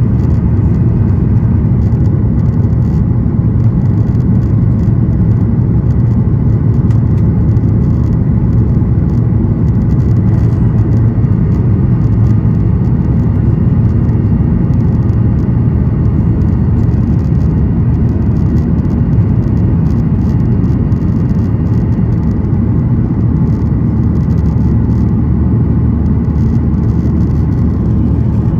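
Cabin noise inside a Boeing 737-800 under way: a steady, loud low rumble from its CFM56-7B engines and airflow, with a faint steady whine above it.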